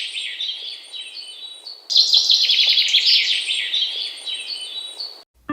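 Songbird singing rapid, high trilled chirps, one phrase fading out and a new loud phrase starting abruptly about two seconds in, then cutting off suddenly near the end.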